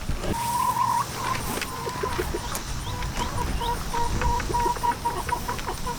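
Flock of hens clucking and calling, with a pulsing, repeated call and scattered short clicks over a low rumble.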